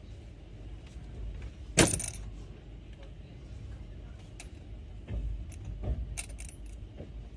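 A sharp metallic clink about two seconds in, followed a few seconds later by several lighter clicks and taps, over a low steady rumble.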